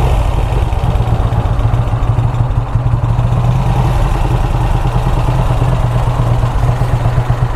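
Motorcycle engine idling steadily with a fast, even low pulse.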